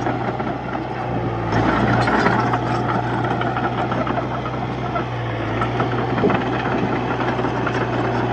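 Diesel engine of a Komatsu D31-P crawler bulldozer running steadily while pushing soil, briefly louder about two seconds in.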